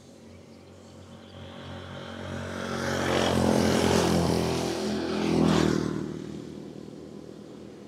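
A motor vehicle passing close by on the road: engine and tyre noise build up, are loudest in the middle with two peaks, then fade away.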